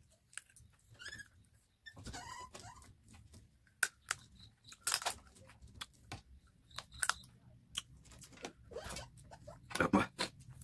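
Close-miked eating sounds of a man eating chicken on the bone by hand: irregular wet mouth smacks and crunches as he bites and chews, some much louder than others.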